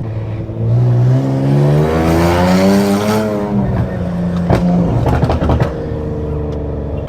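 Infiniti Q60's engine accelerating hard: its pitch climbs for about two seconds, then drops as it shifts or lets off, and settles into a steadier pull. A few sharp cracks come through about four and a half seconds in.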